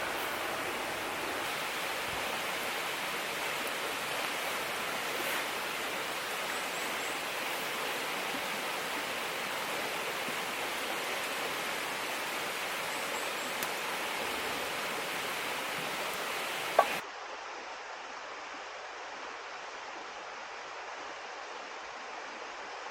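River water flowing steadily. About 17 seconds in there is a sharp click and the rush cuts abruptly to a quieter, duller sound of running water.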